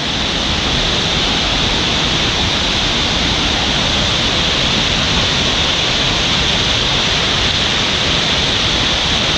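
Nungnung Waterfall: a steady, loud rush of falling water, unchanging throughout.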